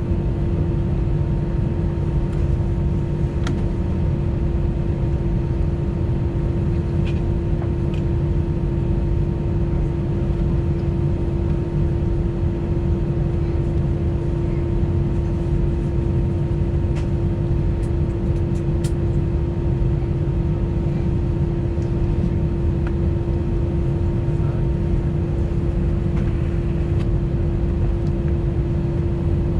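Steady cabin noise inside an Airbus A320 with its jet engines at low power before takeoff: a constant rumble under a steady hum, with a few faint clicks.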